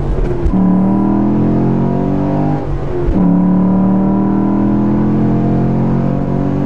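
Chevrolet SS's 6.2-litre LS3 V8 at full throttle through its six-speed manual, heard from inside the cabin. The engine pitch climbs steadily in each gear, with quick upshifts about half a second in and about three seconds in.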